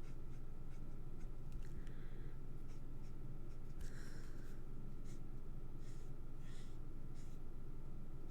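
Marker nib scratching across card stock in short, irregular strokes while leaves are coloured in blue, over a steady low hum.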